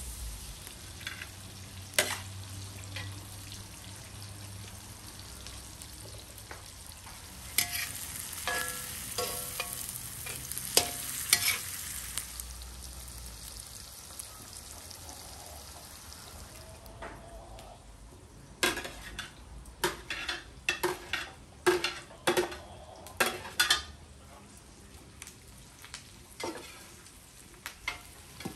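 Chopped bell peppers and onions sizzling in oil in a wide two-handled pan over a wood fire, stirred with a long-handled metal skimmer that scrapes and clinks against the pan. There is a steady hiss, with sharp clinks scattered through it and a quick run of them about two-thirds of the way in.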